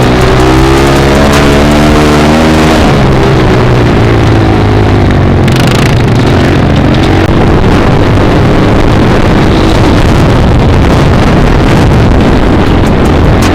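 Dirt bike engine running at speed with the wind buffeting the microphone; the engine note climbs as it revs up over the first few seconds, then holds steady.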